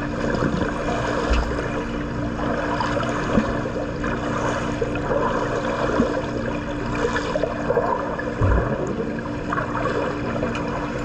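Swimming-pool water churning and splashing as a swimmer moves through it, a steady rushing wash with a constant low hum underneath and a few soft thuds.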